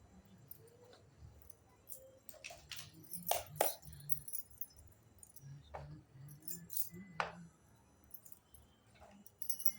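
Small toy kitchen pieces clicking and clinking as they are handled and unpacked, in scattered separate taps, the loudest pair about three and a half seconds in.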